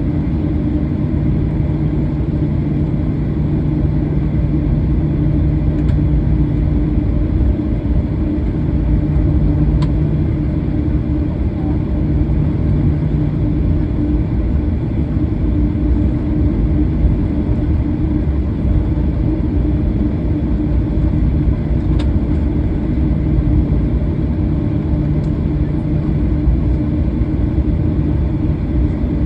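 Steady low rumble of a Boeing 737-800 cabin with its CFM56 engines turning at ground power, with a constant hum over it. A lower hum in the mix weakens after the first several seconds.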